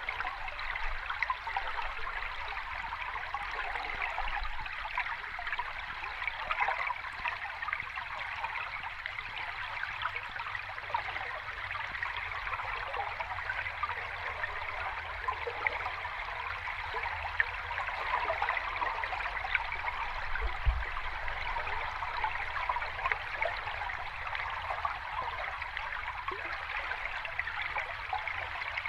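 Water running steadily over a small cascade, with a continuous splashing trickle. One brief low thump comes about two-thirds of the way through.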